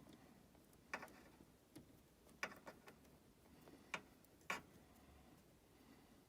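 A few faint, sharp clicks and taps, four plain ones spread over several seconds, as a plastic wire nut and the wires are handled while rewiring the heat pump's control wiring.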